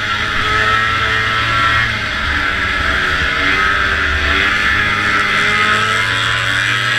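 Vintage racing snowmobile's two-stroke engine running steadily at high revs, with no let-up.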